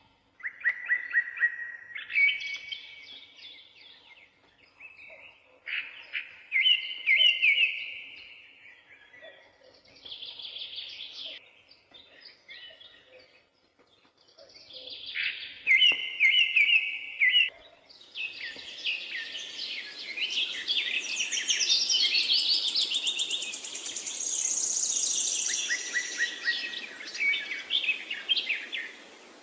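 Wild songbirds chirping and singing in short bursts of rapid trills, with brief pauses between phrases. About two-thirds of the way through, several birds overlap into a dense, higher-pitched chorus over a steady background hiss.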